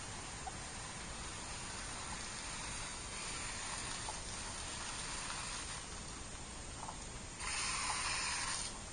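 Garden hose spray nozzle spraying water onto a car, a steady hiss with a louder burst of spray for about a second near the end.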